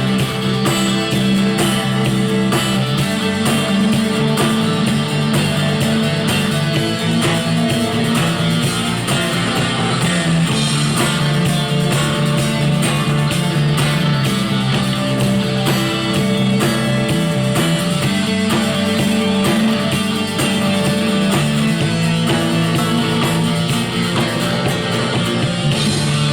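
Instrumental rock music with strummed electric guitars and a steady beat, no vocals.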